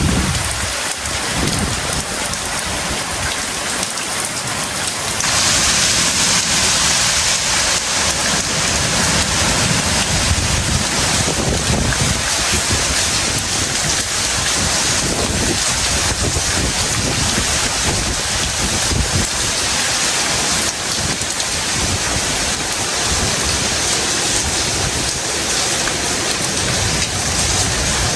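Heavy tropical rain pouring down steadily, getting heavier about five seconds in, with low rumbles coming and going underneath.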